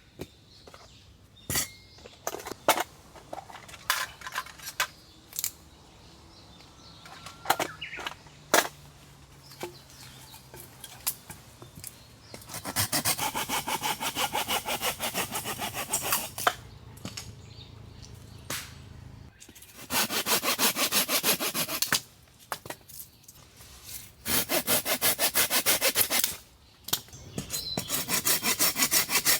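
Folding pruning saw (Silky GomBoy) cutting through wood in fast, even back-and-forth strokes, in four spells of a few seconds each starting about twelve seconds in. Before that, scattered sharp clicks and knocks of wood being handled.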